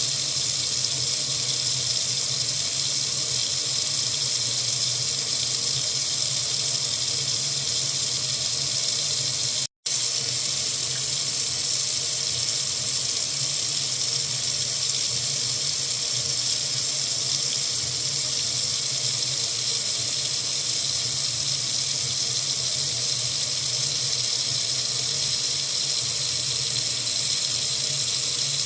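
Water faucet running steadily into a sink, an even hissing rush. The sound drops out completely for an instant about ten seconds in, then carries on unchanged.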